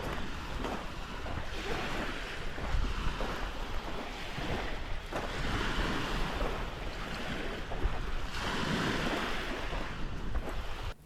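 Wind rushing over the microphone with a deep rumble, swelling and easing in gusts every couple of seconds, then cutting off suddenly near the end.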